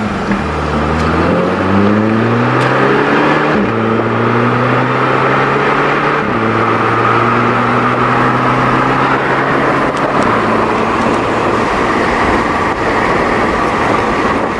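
VW Mk6 GTI's turbocharged 2.0-litre four-cylinder with its muffler deleted, accelerating up through the DSG gearbox. The engine note steps at each of several gear changes. Near the end it settles into steady cruising with road noise.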